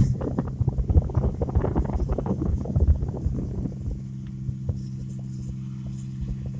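Rice combine harvester engine running with a steady hum, and wind buffeting the microphone in irregular rumbling gusts during the first few seconds.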